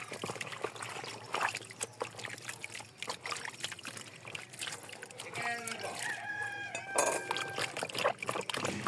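Water pouring and trickling, with small clinks and knocks throughout. A chicken calls briefly about five seconds in.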